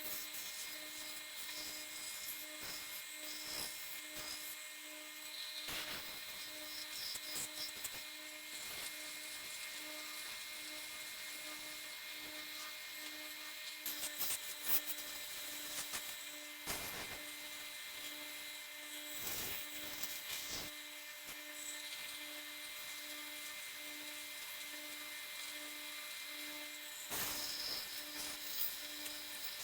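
Belt and disc sander running with a steady whine and a faint pulsing hum. Scratchy sanding noise comes and goes as wood is pressed against the abrasive, heaviest around the middle and near the end.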